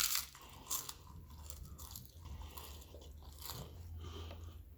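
A person biting into and chewing crisp tortilla food up close: a loud crunch at the start, another just under a second in, a few fainter crunches after, then softer chewing.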